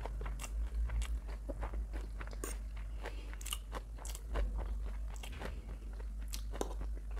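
Close-miked chewing of a mouthful of chow mein noodles: a steady run of wet, irregular mouth clicks and crunches.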